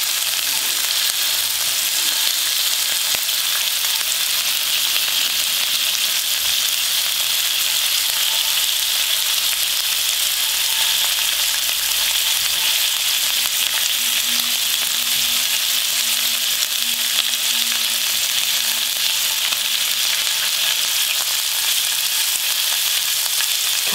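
Pork-belly-wrapped fatty bramble (dureup) shoots frying in oil in a frying pan: a steady, even sizzle.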